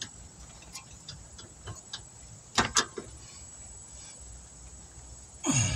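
Scattered light metallic clicks and taps as brake caliper parts and hand tools are handled while working on a stuck caliper slide pin, the loudest a quick pair a little under three seconds in. Near the end there is a brief falling-pitched sound.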